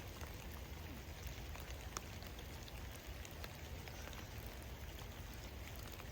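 Steady rain falling, with scattered sharper drop ticks, one about two seconds in, over a low rumble.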